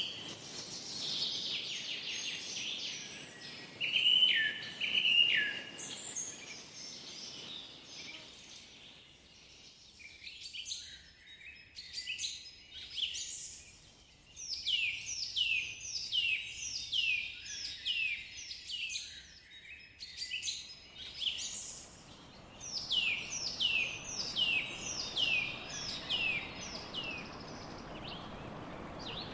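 Songbirds singing in a forest: assorted chirps at first, then two runs of repeated falling whistled notes, about two a second, over a faint steady hiss.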